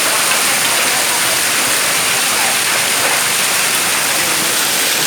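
Hailstorm: hail and heavy rain pelting down, a dense, steady noise.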